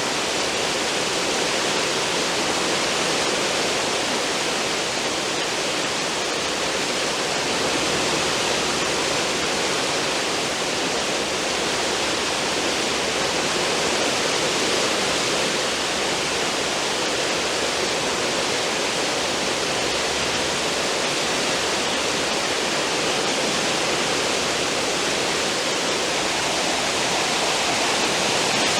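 Steady rushing and churning of a cruise ship's wake: foaming water thrown up behind the stern as the ship moves through the sea.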